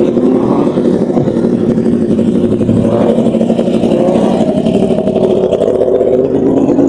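A car engine running loud and steady close by, its note rising a little about three seconds in and then holding.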